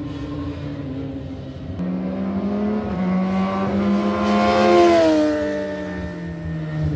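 High-displacement racing motorcycle engine passing at speed. Its note grows louder to a peak about five seconds in, then drops in pitch as it moves away.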